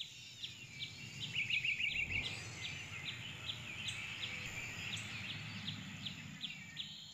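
Birds chirping: a short, high, falling chirp repeated evenly about two or three times a second, with a brief rapid trill about a second and a half in, over a low, steady background noise.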